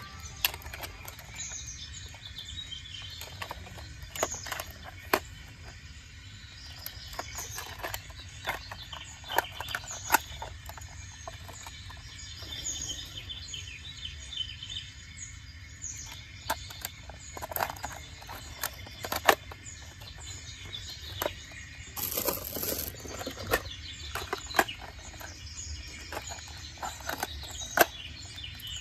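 Small birds chirping in short calls, with sharp clicks every few seconds and a steady low rumble underneath.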